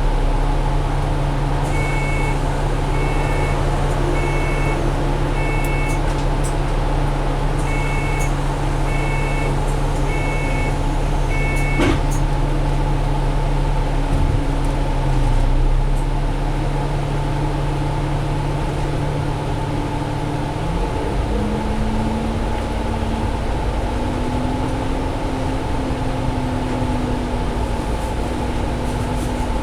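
Cabin sound of a 2017 Alexander Dennis Enviro500 double-decker bus under way, its Cummins ISL diesel running steadily. Two sets of four short high electronic beeps sound in the first twelve seconds, and about two-thirds of the way through the engine note shifts up in pitch and keeps rising slowly.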